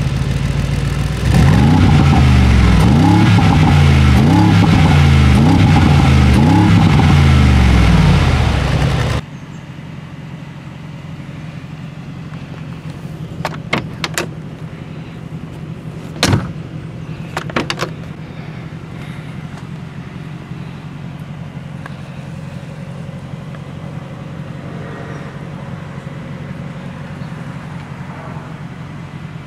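Mercedes-AMG G63's 4-litre twin-turbo V8 revved again and again through its side-exit exhausts, the pitch climbing and dropping in about seven quick blips for some eight seconds. Then a sudden cut to a steady low hum, with a few sharp clicks from the rear door handle and latch as the side-hinged rear door is opened.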